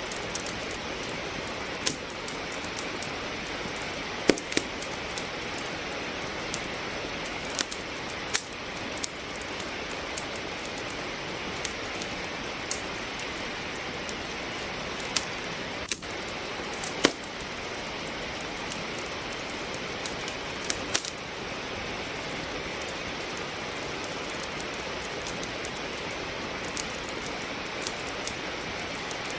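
Steady rain with a wood fire crackling in a fireplace: a constant hiss of rain under irregular sharp pops and snaps from the burning logs, a few of them much louder than the rest.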